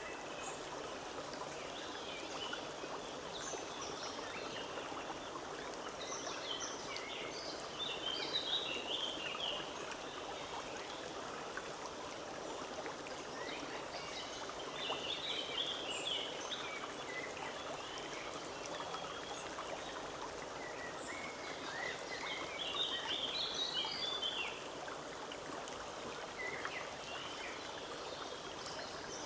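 Forest stream running steadily over stones. Songbirds chirp above it in three spells: a few seconds in, around the middle, and about three-quarters of the way through.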